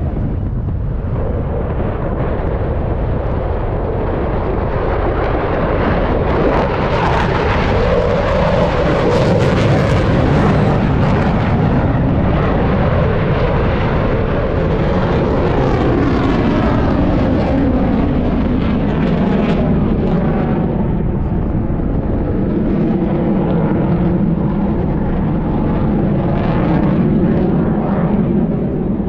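Heritage-flight formation aircraft flying past, their engines making a loud, continuous rush whose pitch sweeps up and down as they go by.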